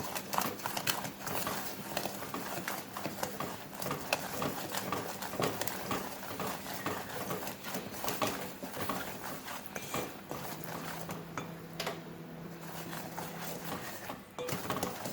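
Spoon repeatedly knocking and scraping against a pan while stirring sugar as it melts and caramelizes, in quick irregular clicks.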